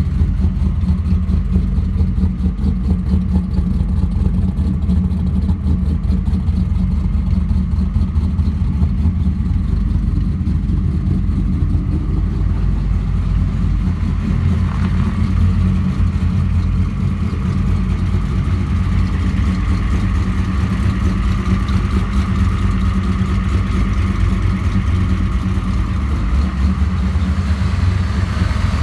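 Car engine idling steadily through a newly fitted exhaust of stainless headers and a MagnaFlow muffler, a low, even rumble with no revving.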